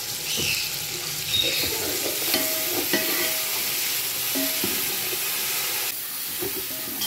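Chicken, tomatoes and onions frying in oil in an aluminium pot with a steady sizzle, stirred with a metal ladle that scrapes and clinks against the pot now and then. The masala has just gone in and is being fried in (bhuna).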